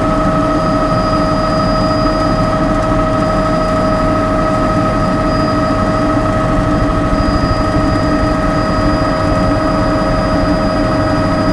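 Helicopter's engine and rotor noise heard on board in flight: a steady, loud drone with constant high-pitched whining tones over a low rumble.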